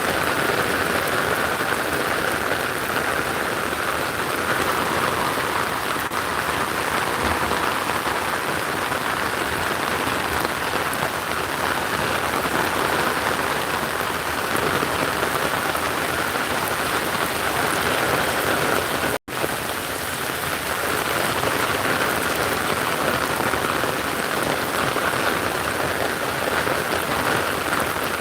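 Steady rain falling. It drops out for an instant about two-thirds of the way through.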